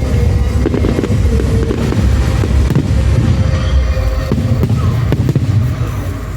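Fireworks display: repeated bangs and crackles of fireworks bursting over the show's loud music soundtrack.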